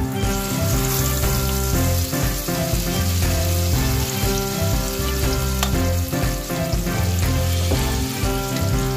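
Egg-coated eggplant halves frying in hot oil in a pan, a steady loud sizzle that jumps up at the start as the second piece is laid into the oil. A spatula pressing the eggplant adds small scrapes, over background music with steady held notes.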